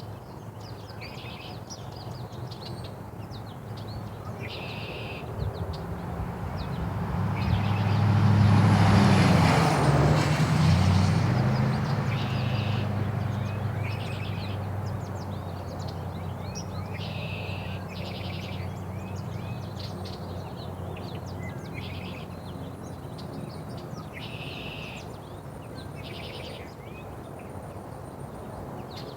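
A motor vehicle passing on a nearby road: its engine and tyre noise grows to its loudest about nine seconds in, dropping in pitch as it goes by, then slowly fades. Small birds chirp repeatedly throughout.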